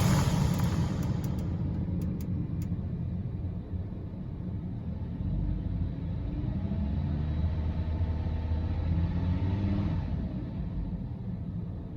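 Lamborghini Huracán LP580's 5.2-litre V10 running. It is loud at first and dies down over the first couple of seconds, then settles into a low rumble whose pitch drifts gently up and down before it fades about ten seconds in.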